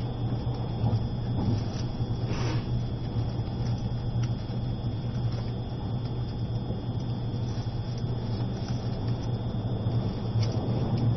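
Running noise of an E653 series limited-express train crawling at about 20 km/h under a strong-wind speed restriction: a steady low hum with a few faint clicks.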